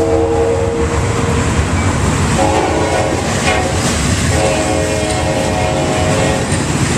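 Train horn sounding three long blasts, each a chord of several steady tones, over the continuous rumble of a passing train.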